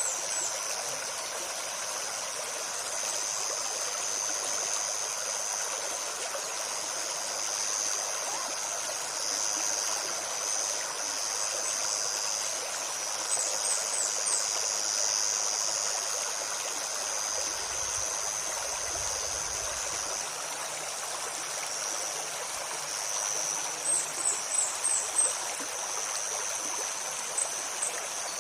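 Shallow forest stream babbling steadily, with a high continuous insect buzz over it. Midway and again near the end, a small bird gives a quick run of three or four high chirps.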